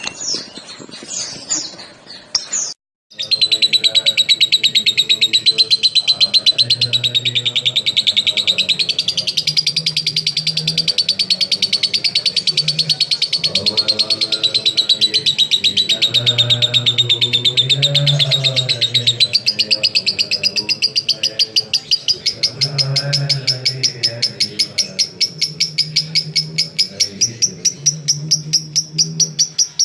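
Lovebird singing a long unbroken ngekek: a fast, even, high-pitched chattering trill that starts about three seconds in and keeps going without a break for over twenty-five seconds.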